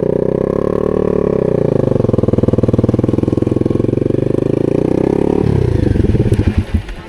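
250 supermoto's single-cylinder engine running at a steady pitch, then the note falls away about five and a half seconds in and fades near the end as the throttle closes.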